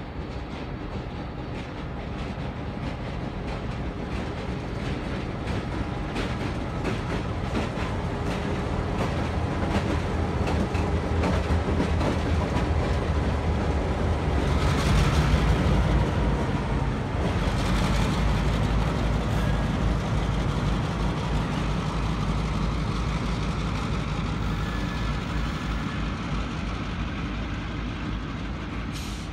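New York & Atlantic Railway freight train hauled by two diesel-electric locomotives, a GP38-2 and an MP15AC, passing close by. The diesel engines grow louder as they approach and pass about halfway through, followed by the steady rolling and clicking of the garbage cars' wheels on the rails.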